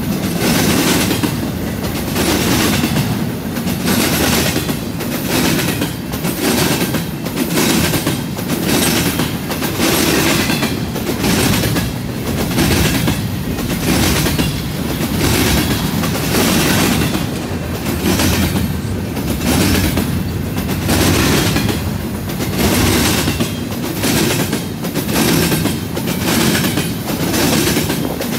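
Intermodal freight cars, double-stack well cars and flatcars, rolling past with a steady rumble, their wheels clattering in an even rhythm of about one beat a second as each truck crosses the junction switch.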